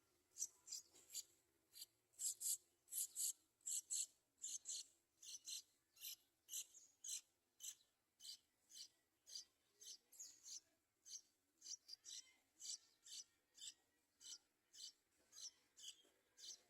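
Yellow-vented bulbul nestling begging: a faint, long run of short raspy hisses, about two to three a second.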